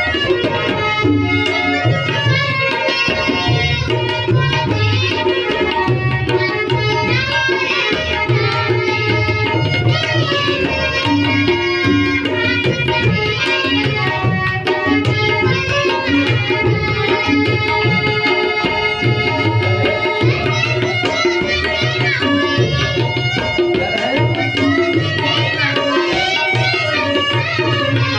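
Ghazal music led by tabla playing a steady rhythm, the deep strokes of the bass drum prominent, with a wavering melody line above.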